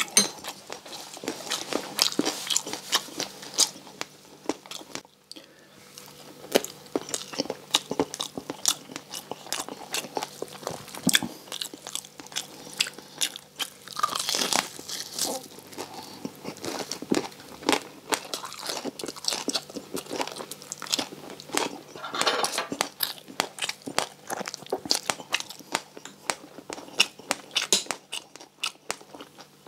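Close-miked crunching and chewing of deep-fried crispy pork belly, its crackling skin breaking up with each bite, with louder bouts of biting at a few points.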